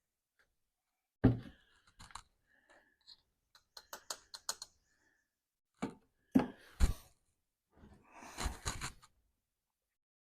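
Handling noise from hands-on work: a string of clicks, taps and knocks, with a hard knock about a second in, a quick run of clicks in the middle and a short rattle near the end.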